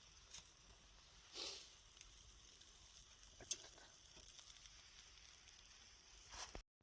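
Wood campfire burning with a soft steady hiss and scattered small crackles, with one sharp pop about three and a half seconds in. The sound cuts out abruptly just before the end.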